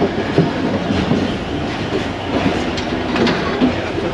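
Passenger train running through a station yard, its wheels clicking and clacking over the rail joints and points above a steady rolling rumble.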